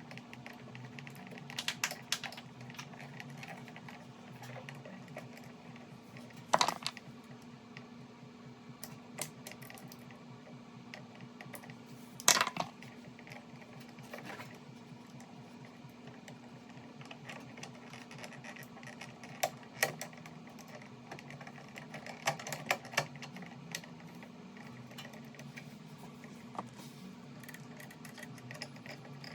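Scattered light clicks and taps of hand work on electrical wiring: wire, hand tools and screw terminals being handled while a neutral pigtail is spliced to a receptacle. Two sharper knocks stand out, about six and twelve seconds in, over a steady low hum.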